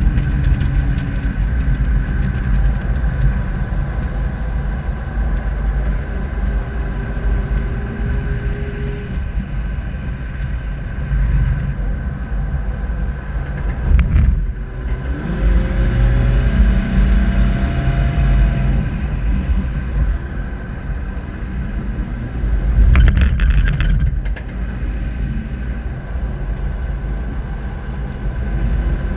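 Heavy rumble of wind and road noise on a bumper-mounted camera as the vehicle drives slowly around a race track. An engine note rises and falls under it, with louder swells about halfway through and again near the end.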